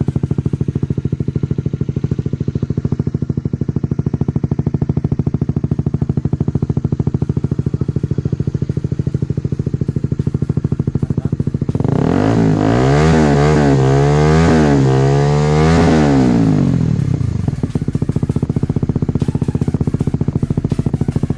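Honda CBR150R single-cylinder four-stroke engine idling through an aftermarket stainless racing exhaust, with a steady deep exhaust pulse. About halfway through, the throttle is blipped in several quick revs that rise and fall, then the engine settles back to idle.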